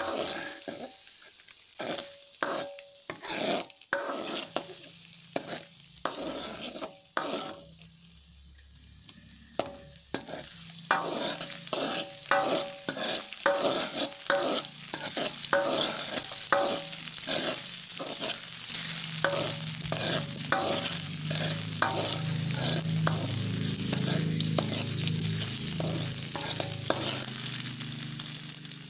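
Garlic, lemongrass and ginger frying in oil in a metal wok, with a spatula scraping and knocking against the pan about once or twice a second. The sizzle builds from about a third of the way in and holds steady and louder through the second half.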